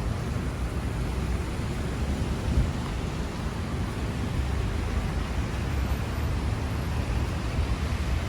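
Steady low rumble of city street noise, with a brief thump about two and a half seconds in.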